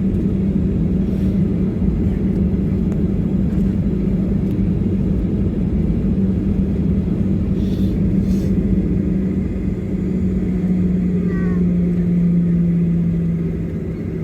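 Airliner's engines and cabin rumble heard from inside the passenger cabin: a steady low rumble with a strong hum that drops slightly in pitch near the end.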